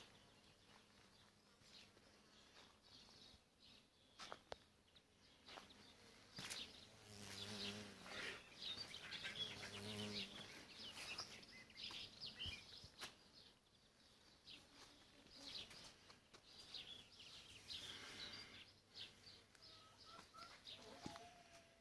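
Faint outdoor ambience of small birds chirping in short, scattered calls, with a faint low hum for a few seconds around the middle.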